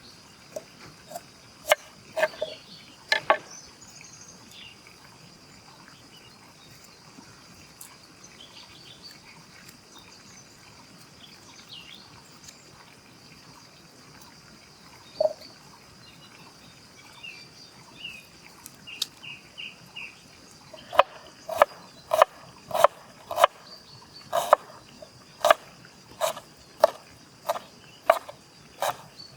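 Knife chopping on a cutting board: a few strokes at the start, then a steady run of about two strokes a second over the last third. Insects shrill steadily in the background.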